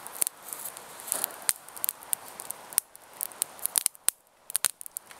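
Small fire of tinder and twigs crackling with irregular sharp pops as it catches, over a light hiss that fades about three seconds in.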